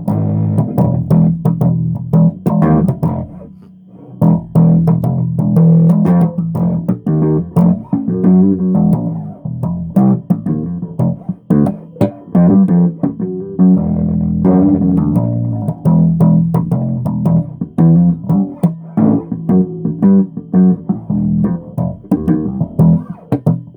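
Electric bass guitar played solo, a run of plucked notes with sharp attacks, dropping off briefly about four seconds in before the playing picks up again.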